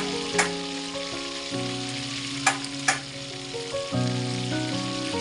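Chicken leg pieces frying in hot oil, a steady sizzle. A cooking utensil clicks sharply against the pan near the start and twice about halfway through.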